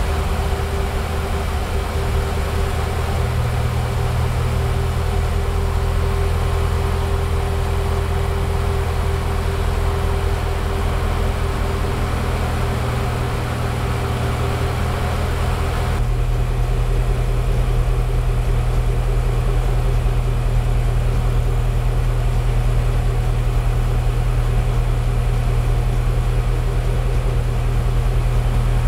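Range Rover Velar SVAutobiography Dynamic Edition's 5.0-litre supercharged V8 idling steadily. Its tone shifts once about halfway through.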